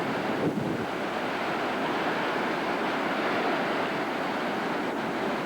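Hurricane wind buffeting the microphone over heavy surf: a steady rush of noise with no let-up.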